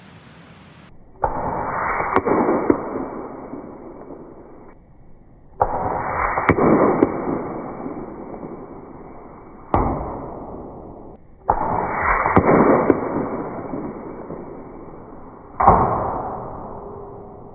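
Shots from an AEA Terminator .35 big-bore PCP air rifle. About five sudden reports, each trailing off in a long, fading rumble.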